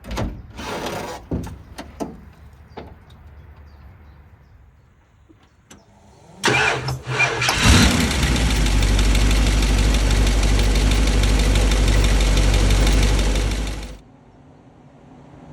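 A few clicks and knocks, then the Ford 400 V8 of a 1960 Ford F100 cranks briefly on the starter and fires, running loud and steady through 3-inch headers and a Flowmaster exhaust, before cutting off abruptly near the end.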